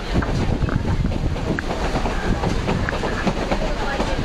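Train running along the track, heard from aboard: a steady rumble with the clatter of wheels on the rails, under a rush of wind and river water.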